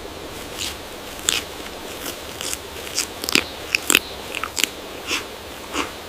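An animal chewing and crunching as it bites into food, with irregular sharp crunches over a steady hiss, thickest about halfway through.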